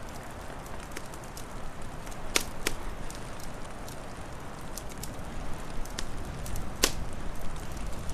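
Wood fire crackling: scattered sharp pops and snaps, a few louder ones a couple of seconds in and near the end, over a steady low rushing noise.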